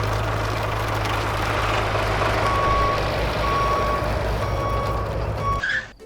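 A truck engine running steadily while its reversing beeper sounds about once a second, four beeps starting about two and a half seconds in. The engine and beeps cut off suddenly near the end.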